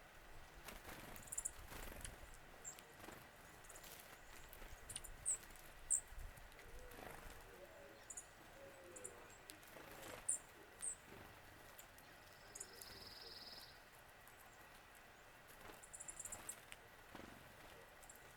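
Faint calls of small wild birds: scattered short, very high chip notes, with one brief buzzy trill about two-thirds of the way through.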